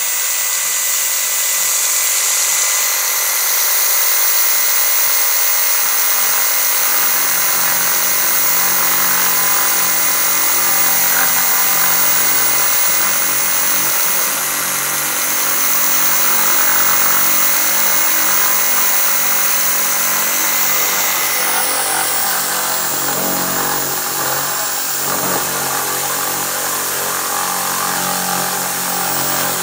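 Electric reciprocating saw running steadily at full speed, its blade plunge-cutting into wood.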